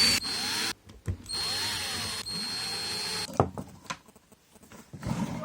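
Cordless drill motor running in two short bursts, the second about two seconds long, with a steady high whine, followed by a few clicks of handling.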